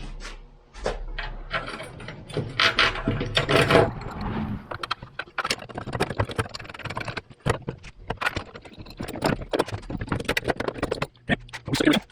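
Metal parts and hand tools being handled while a mower-deck bearing housing is fitted: irregular scrapes, clinks and rattles, busiest about two to four seconds in and again near the end.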